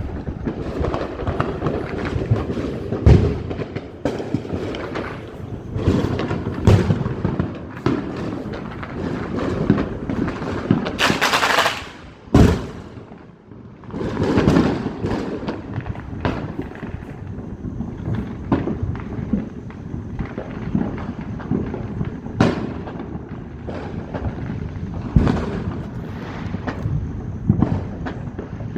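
Fireworks going off: a steady run of bangs and crackling, with the loudest volley about eleven seconds in, followed by a brief lull before the bursts resume.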